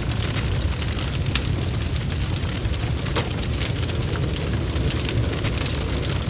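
Bonfire crackling: a steady low rumble of burning, with frequent sharp pops and snaps scattered throughout.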